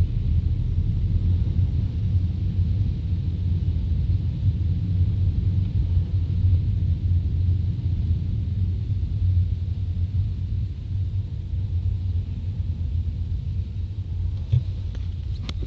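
A car driving, heard from inside the cabin: a steady low rumble of road and engine noise, with a few faint clicks near the end.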